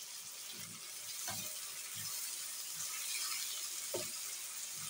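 Sliced potatoes and tomatoes sizzling in oil in a pan, with a wooden spoon stirring them and knocking against the pan a few times.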